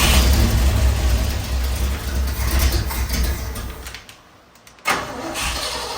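Engine starting and running with a deep, steady rumble through its freshly welded and reconnected header and exhaust pipe. The engine sound drops away about four seconds in.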